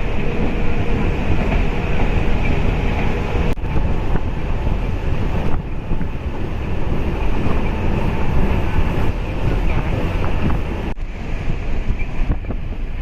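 MEMU passenger train running at speed: a steady rushing noise heavy in the low end, with wind buffeting the microphone.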